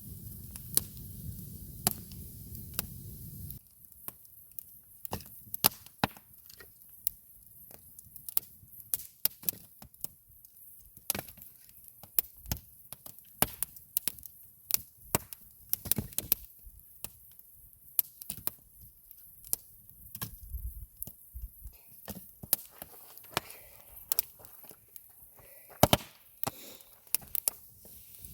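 Campfire crackling: burning wood pops and snaps irregularly in sharp cracks, a few a second. A low steady rumble underneath cuts off suddenly a few seconds in.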